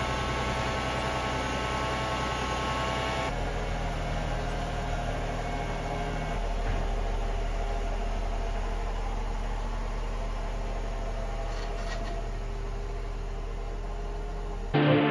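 Mercedes SL350's V6 engine idling steadily, then running at low speed as the car pulls slowly forward; the engine note changes a few seconds in and again about six seconds in. Music starts just before the end.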